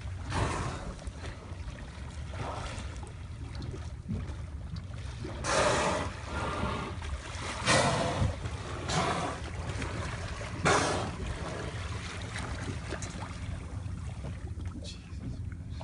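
Water sloshing and splashing around a boat's stern, with several louder splashes about half a second long, over a steady low hum.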